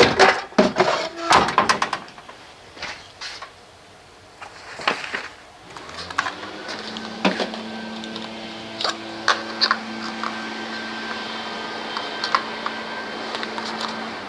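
A few knocks and clatters, then about six seconds in a leaf blower starts up and runs with a steady hum.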